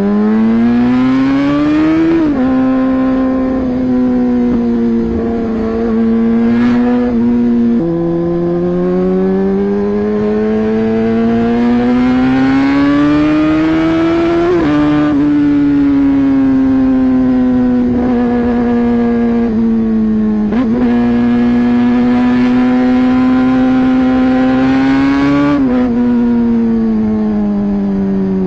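Hero XPulse 200 4V motorcycle's single-cylinder engine under way, rising in pitch as it accelerates and dropping sharply at each of several gear changes. Between the shifts it holds a near-steady pitch at cruising speed.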